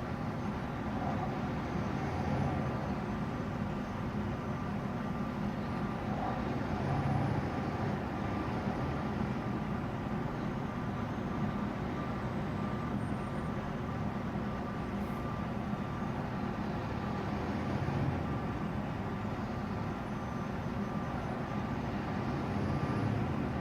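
A large truck's engine running steadily, with a few brief swells in level.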